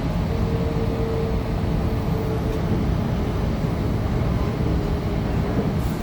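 Interior running noise of a Sydney Trains Tangara electric multiple unit in motion: a steady low rumble of wheels on track, with a thin steady mid-pitched tone over the first couple of seconds.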